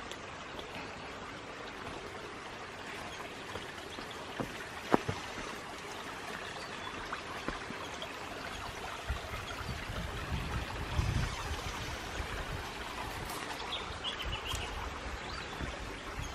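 Water of a small waterfall and creek running steadily. A sharp click comes about five seconds in, and a low rumble rises for a few seconds past the middle.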